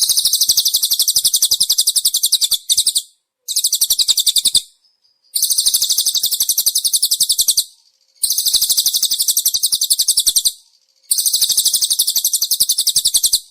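Small songbird's rapid, high-pitched trill of fast, evenly repeated notes ('tembakan speed rapat'), in five bursts of one to three seconds with short gaps between them. It is a masteran recording used to tutor captive songbirds.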